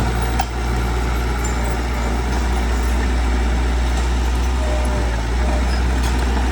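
Heavy diesel engine of a construction machine running steadily at low revs, with a brief click about half a second in.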